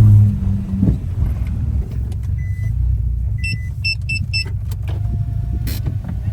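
Low, steady rumble of a car driving along the road. A low droning note cuts off in the first half-second, and around the middle a short run of high electronic beeps sounds.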